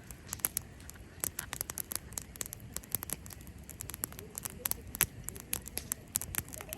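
Cherry-wood campfire crackling: a busy, irregular run of sharp snaps and pops.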